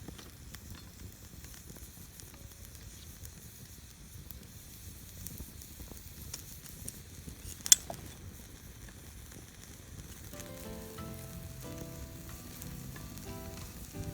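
Wood campfire crackling steadily with many small pops, and one loud sharp pop a little past halfway. Soft jazz background music comes in for the last few seconds.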